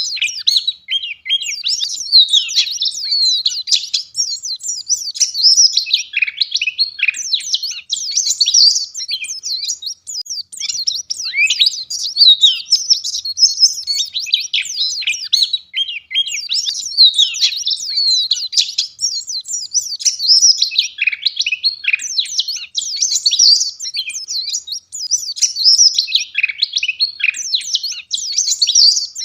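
Wild white-eye (pleci) singing full out: a fast, dense, high twittering song, phrase running into phrase with only brief breaks.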